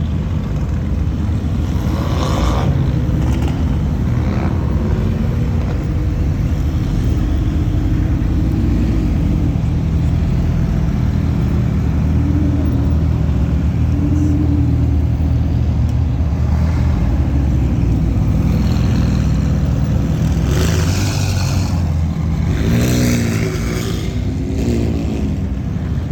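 A car engine running with a steady low drone, and a few brief louder noises about two seconds in and again near the end.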